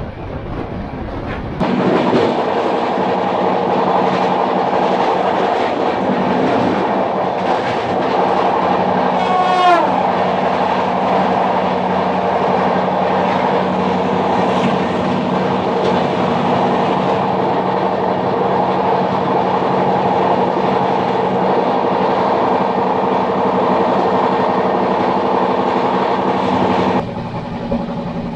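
Express train running at speed, heard from an open coach door: steady rolling noise of wheels on rail with a held droning tone. It starts suddenly about two seconds in and cuts off about a second before the end. A short falling tone sounds about nine seconds in.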